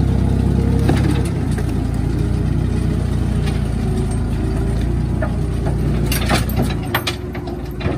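Tractor engine running steadily. Its low note shifts about a second in, and a few sharp knocks come near the end.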